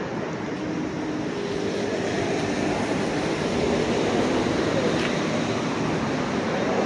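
Steady vehicle noise, a continuous motor-traffic rumble with no distinct events.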